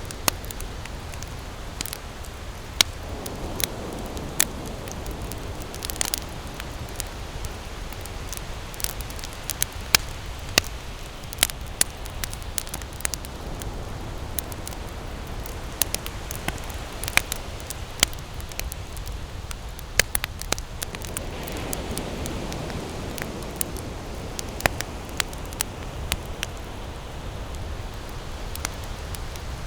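Wood campfire burning, with irregular sharp crackles and pops over a steady low rush. A softer rushing sound swells and fades twice.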